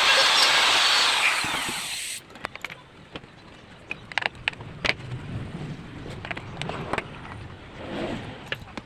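Electric drill running with a steady whine, then spinning down and falling in pitch, stopping about two seconds in. After that come scattered light clicks and knocks.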